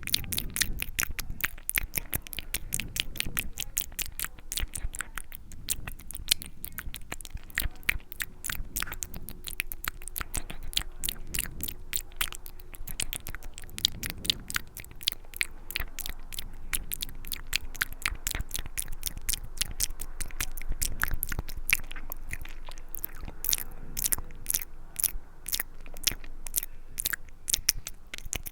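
Close-miked ASMR mouth sounds: a steady run of quick, wet clicks and smacks from the lips and tongue, several a second, like chewing.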